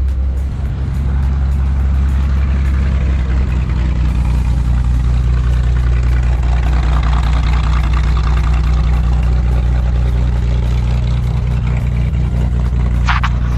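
A road vehicle driving, a steady low engine and road drone, with a brief sharp click just before the end.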